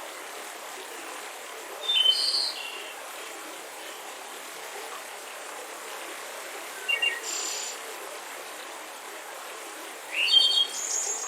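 A songbird singing three short chirping phrases, about two, seven and ten seconds in, over the steady rush of a mountain river.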